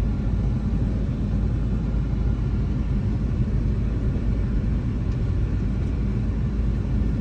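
Steady low rumble of a car driving, heard from inside the cabin: engine and tyre noise on a rough, bumpy road under construction.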